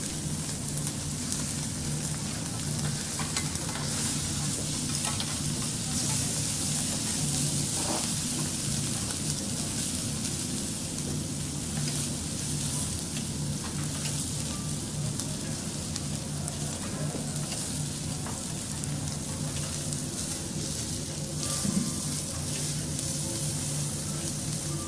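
Food sizzling and frying on a teppanyaki griddle, a steady hiss with a few light ticks.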